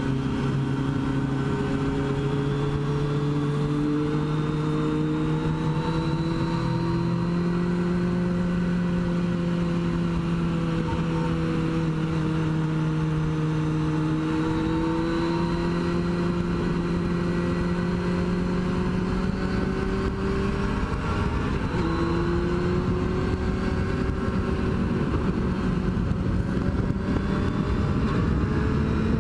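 Motorcycle engine running at a steady cruise, its pitch drifting slowly up and down with a brief break about two-thirds of the way through, like a gear change, over wind and road noise.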